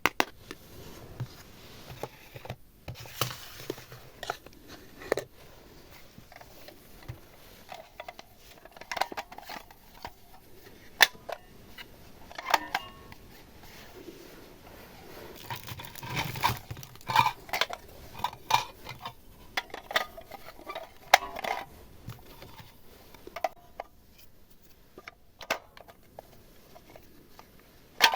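Small plastic toy kitchen utensils and trinkets being handled close up: scattered sharp clicks and taps mixed with short crinkling sounds, busiest in the middle of the stretch.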